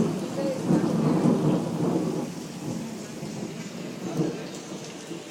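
Thunder rumbling and dying away over the first two seconds or so, with steady rain hissing on after it.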